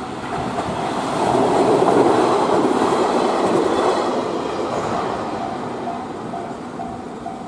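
A train passing through a railroad crossing, loudest about two seconds in and fading over the next few seconds. The crossing's warning bell rings on at about two or three dings a second and comes through plainly again as the train dies away.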